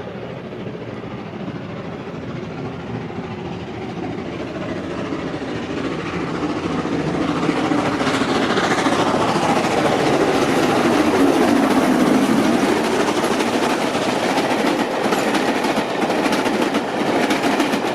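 Steam-hauled train approaching and passing, the locomotive working hard. It grows louder over the first half, and near the end the wheels click over the rail joints.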